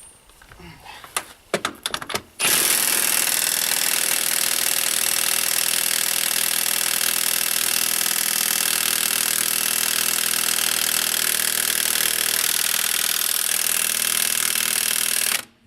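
Impact wrench hammering on a seized tractor wheel nut, running without a break for about thirteen seconds after a few clicks, then cutting off suddenly near the end.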